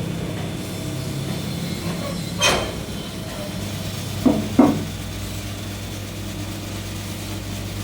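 Electric motor of a coconut milk machine running with a steady hum. A brief louder whoosh comes about two and a half seconds in, followed by two sharp knocks a third of a second apart a little past the middle.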